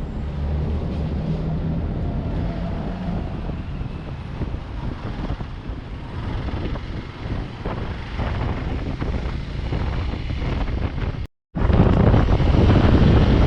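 Motorcycle running steadily at road speed, with wind rushing over the microphone. The sound drops out completely for a moment near the end, then comes back louder.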